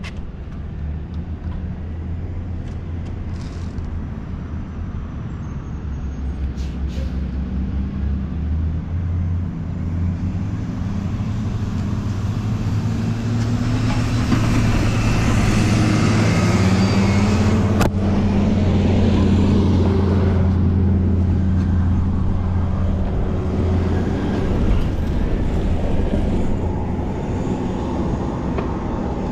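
Motor traffic on the road: an engine hum and tyre hiss that build to their loudest about halfway through, then slowly ease off, with one sharp click in the middle.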